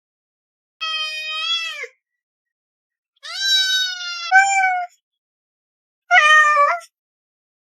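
A cat meowing three times: a call of about a second, a longer drawn-out call that jumps up in pitch partway through, and a short final meow.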